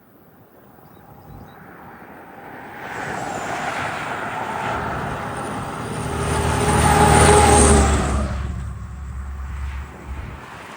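A large engine-driven vehicle approaching and passing close by: a steady engine rumble swells over several seconds, peaks, then drops off sharply about eight seconds in.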